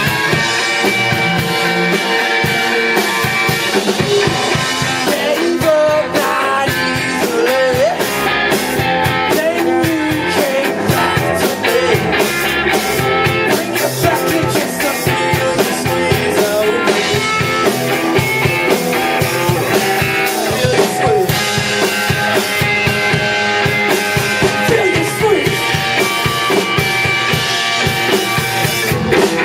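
Live rock band playing loud, with drum kit and electric guitars, and a voice singing at times.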